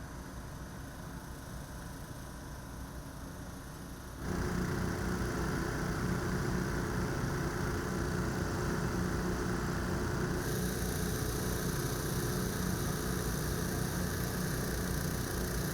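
An engine running steadily with a low hum. It gets abruptly louder about four seconds in, and its upper hiss changes again at about ten seconds.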